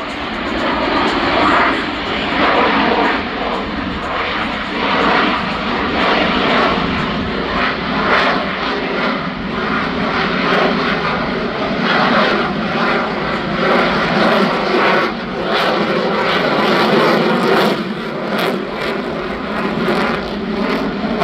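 Airplane engine noise, loud and continuous, swelling and easing over the whole stretch.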